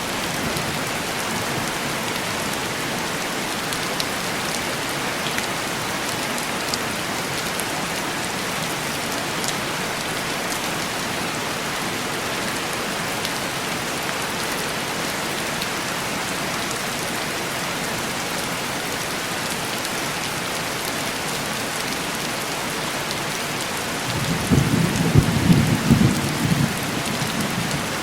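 Steady heavy rain pattering on a window pane, with a low rumble of thunder swelling about 24 seconds in and dying away after a few seconds.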